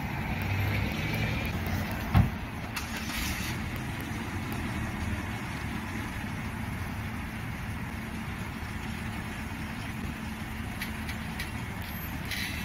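Car engines idling steadily in a low rumble, with one sharp thump about two seconds in.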